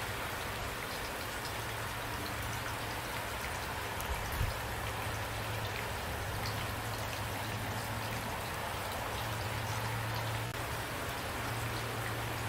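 Steady rain falling, with individual drops landing as scattered ticks over an even hiss.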